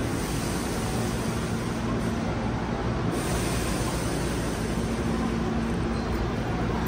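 Steady running noise of a Hankyu electric train, an even rumble with a faint low hum that comes and goes.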